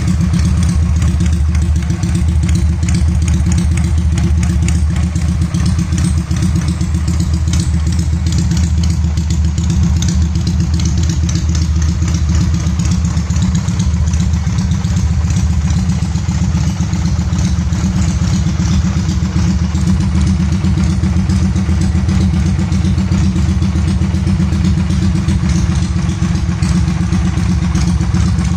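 Regal Raptor motorcycle engine idling steadily through its exhaust, with no revving.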